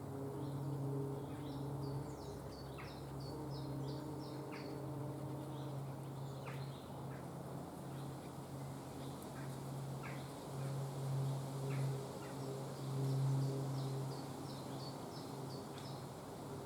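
Small songbird singing, two bursts of quick repeated high notes with scattered single calls between them, over a steady low hum.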